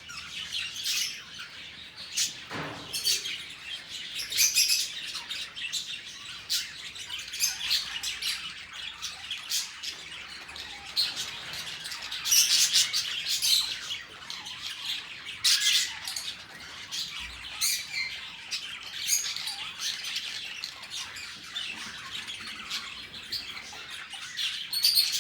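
A flock of budgerigars chattering: continual overlapping chirps, warbles and short squawks.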